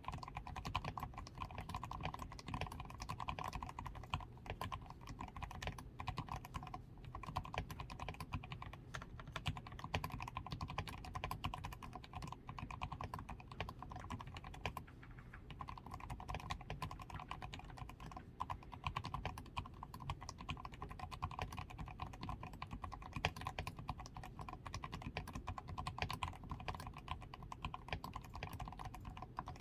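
Continuous typing on a DAREU A87 Pro mechanical keyboard, its switches and stabilisers lubed with Krytox 105, with a tape-modded PCB, Poron switch foam and XDA keycaps: a dense, steady stream of keystrokes, easing briefly about halfway through.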